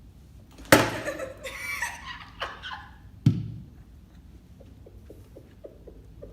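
A loud thump, then a burst of laughter and a second heavy thump about two and a half seconds later, followed by a run of faint quick ticks, about three a second.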